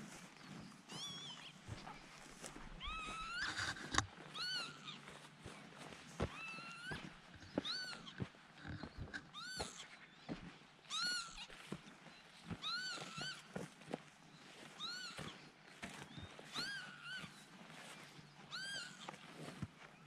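A bird calling over and over, a short mewing call that rises and falls, about once every one to two seconds: alarm calling, which the uploader takes for an annoyed bird that wants everyone to go away. Scattered soft knocks, the loudest about four seconds in.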